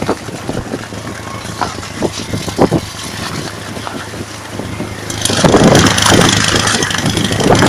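Hail and rain shower: scattered single knocks of stones and drops over a steady low hum, then about five seconds in the downpour suddenly thickens into a loud, dense hiss.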